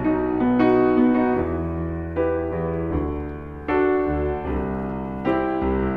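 Piano playing slow, sustained chords, a new chord struck about every three-quarters of a second, as the instrumental lead-in to a song.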